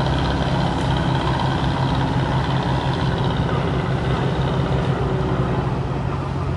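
Boat's diesel engine running steadily, a low even drone.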